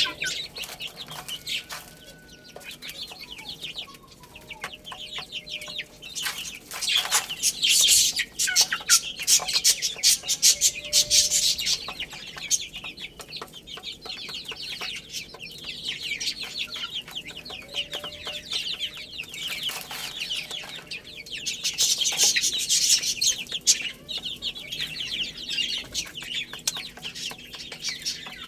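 A flock of baby chicks peeping continuously in dense, high-pitched chirps, louder in two stretches, with a few fainter lower calls among them.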